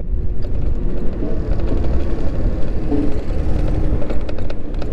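Steady low rumble of wind and road noise from riding an electric moped through city traffic, with a few faint clicks near the end.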